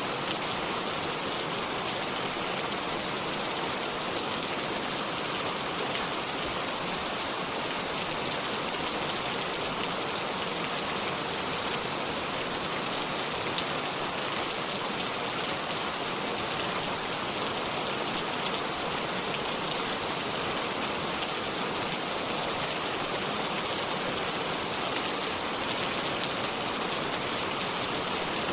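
Steady rain falling, an even hiss of rainfall with fine drops pattering on surfaces.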